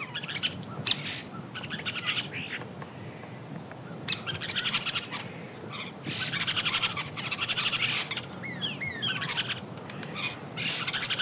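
Birds chirping: repeated bursts of fast, high chirping trills, with a few quick falling whistled notes about two-thirds of the way in.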